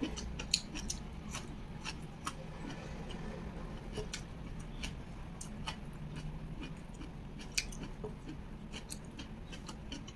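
Close-miked eating sounds: a person chewing glutinous rice with beef serundeng and boiled kailan, with irregular sharp mouth clicks over a low steady hum.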